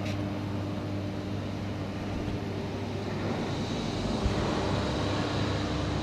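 Steady machinery hum with low droning tones. A faint high whine comes in about halfway, and there is a single click near the end.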